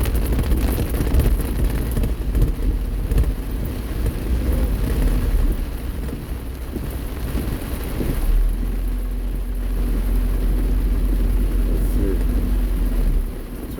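Heavy rain pelting the roof and windshield of a moving car, heard from inside the cabin over the low rumble of the car on a wet road. A deeper steady rumble swells about eight seconds in and cuts off shortly before the end.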